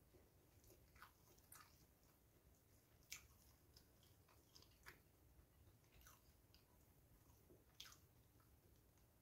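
Faint eating sounds: a person chewing a mouthful of rice and soft fried food, with a handful of soft clicks and smacks scattered through, over otherwise near-silent room tone.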